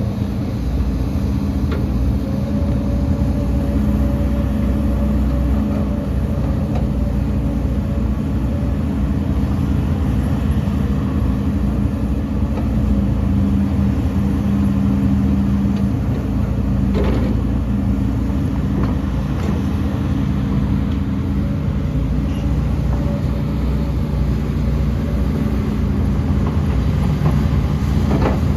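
Heavy diesel earthmoving machine engine running steadily with a constant low hum, and a couple of sharp knocks, one a little past halfway and one near the end.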